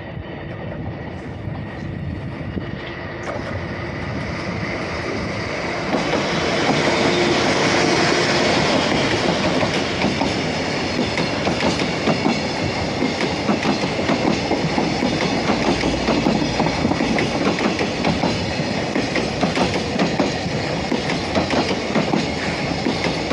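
Freight train hauled by a DE65 diesel locomotive running past, growing louder over the first several seconds, then a long string of container wagons rolling by with a steady clickety-clack of wheels over rail joints.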